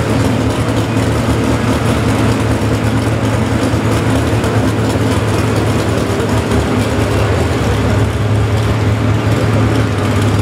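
Pulling truck's engine running loud and steady, holding a nearly constant pitch.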